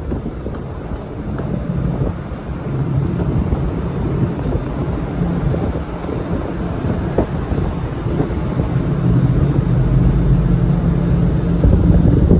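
Ferry's engines running during docking: a steady low rumble with a droning hum that grows a little stronger near the end.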